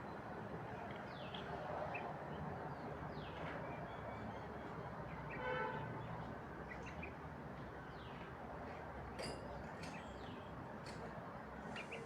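Birds chirping in short falling notes over steady background noise, with one louder pitched call about five and a half seconds in and a few sharp clicks later on.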